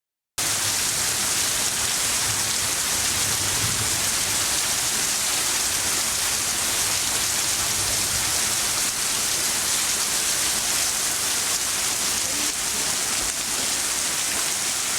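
Heavy rain pouring down steadily, coming in suddenly about half a second in.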